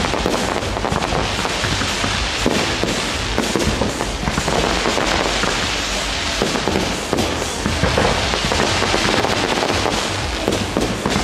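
Fireworks going off in a continuous barrage: rising comets and small bursting shells give dense crackling and many rapid pops without a break.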